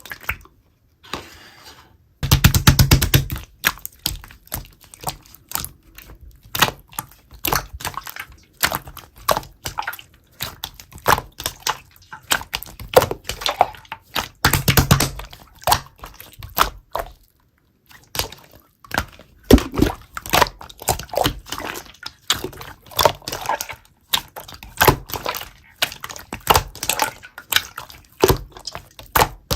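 Slime being squeezed and poked by hand, a rapid run of sticky clicks and small air pops with a few short pauses. The busiest bursts come a couple of seconds in and around the middle.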